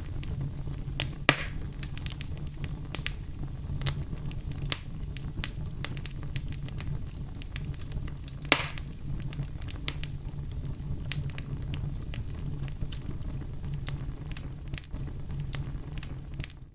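Wood fire in a fireplace crackling: a steady low rumble of flame under frequent sharp pops, with two louder pops about a second in and about eight and a half seconds in.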